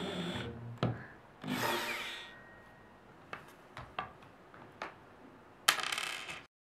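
Short runs of a power drill with scattered knocks and clicks of wooden panels being handled. The audio cuts off abruptly near the end.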